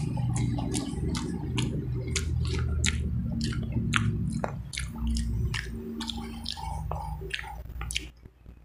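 Close-miked chewing of a breadcrumb-coated potato corn dog, with crisp, wet mouth clicks about three times a second. It stops shortly before the end.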